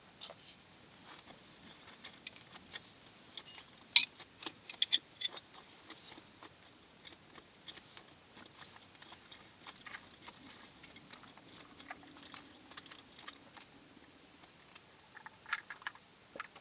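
A person eating close to the microphone: chewing and crunching, with scattered sharp clicks, the loudest about four and five seconds in and another cluster near the end.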